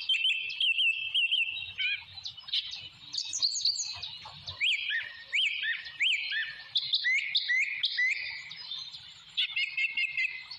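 Birds calling: a steady string of short, high, sliding chirps and whistles, often several at once, with a run of hooked up-and-down notes in the middle.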